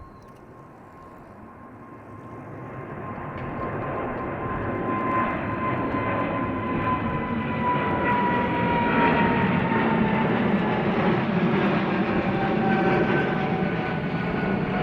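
Jet airliner taking off: engine noise builds over the first few seconds and stays loud, with a whining tone that slowly falls in pitch.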